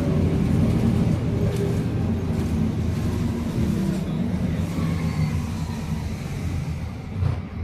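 Scania K310UA articulated city bus's engine running as the bus travels. The steady hum eases off over the last couple of seconds, and there is a single thump near the end.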